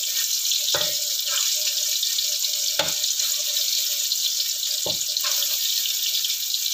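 Oil sizzling steadily in a wok as dried shrimp, mushroom, shallots and garlic fry, with the spatula knocking against the wok three times as the food is stirred.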